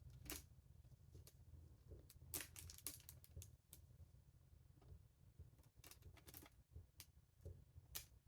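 Faint, scattered light clicks and taps of small wooden pieces being handled and pressed into place in a wooden lattice, over a low steady room hum.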